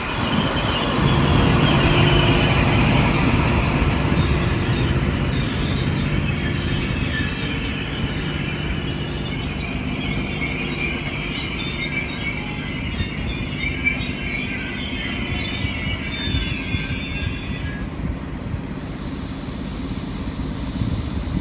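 Oscar (H set) electric intercity train pulling away from the platform, its wheels squealing over a steady low motor hum, slowly fading.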